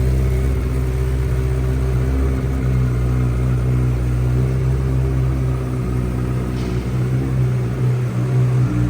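Honda CBR1000RR SP2 race bike's inline-four engine idling steadily through a full titanium Akrapovic exhaust.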